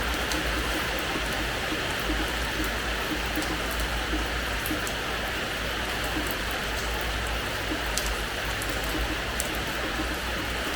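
Steady rain falling on a hard terrace floor, an even hiss with scattered sharp ticks of single drops striking and a low rumble underneath.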